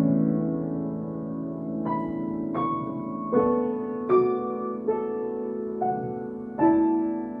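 Solo piano playing a slow, gentle melody: single notes struck roughly every three-quarters of a second over sustained, ringing chords.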